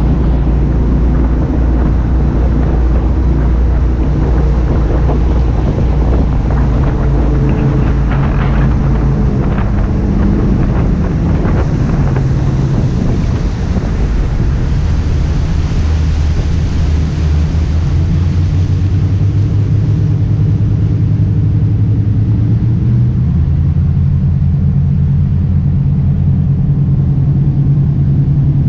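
Jet boat's engines running loud and steady, the engine note shifting in pitch several times and stepping up late on.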